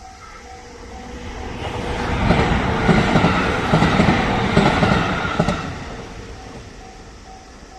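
JR Tokaido Main Line local train passing a level crossing: its noise swells, peaks with wheels clattering over the rail joints between about two and five seconds in, then fades. The crossing's warning bell dings steadily, about two and a half strokes a second, and is heard plainly again as the train dies away.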